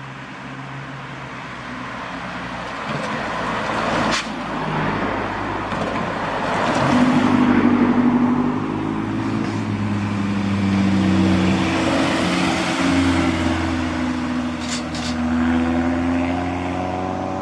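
Large truck's engine drawing near and running past, growing louder over the first several seconds, with short hisses about four seconds in and near the end.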